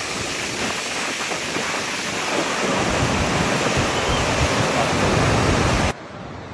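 Wind buffeting the microphone: a loud rushing noise with heavy low rumbles that build from about halfway through. It drops off abruptly near the end to a quieter wind noise.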